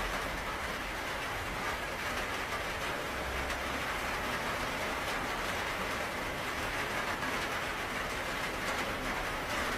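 Steady rain falling, an even wash of noise that holds at one level throughout.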